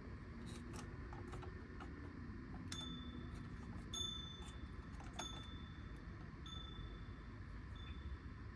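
Electronic chime sounding five times at an even pace, about once every second and a quarter, each ding ringing and fading, the last one weaker. Small clicks and taps are heard before the chimes start.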